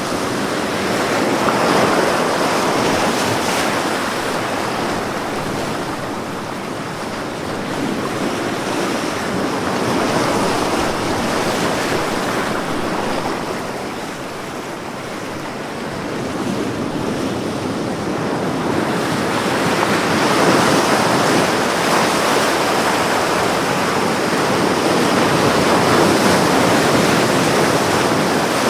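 Ocean waves breaking and washing on a beach, a continuous surf that swells and eases slowly every several seconds.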